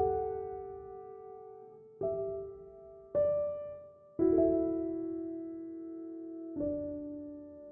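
Slow background piano music: sustained chords struck every second or two, each ringing on and fading before the next.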